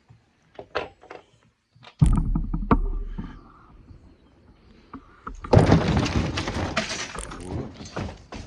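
Metal handling noise while a bicycle's front disc brake is adjusted: a few light clicks, a heavy thunk about two seconds in, then a few seconds of loud rattling and clanking of tools and bike parts.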